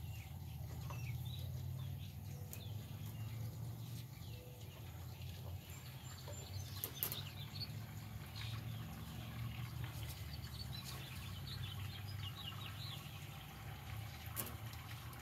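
Birds calling faintly, scattered short chirps, over a low steady hum and a few light clicks.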